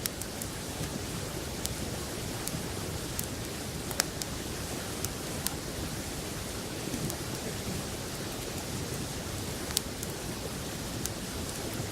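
Open wood fire crackling, with about a dozen sharp, irregular pops, over the steady rush of a river.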